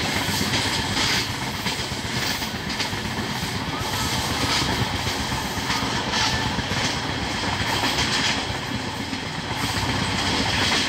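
Express train running along the track, heard from aboard: a steady rumble of wheels on the rails with irregular clicks as the wheels cross rail joints.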